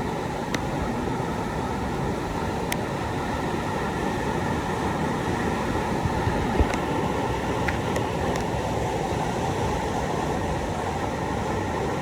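River rapid running at high water, a steady, dense rushing noise, with a few faint clicks.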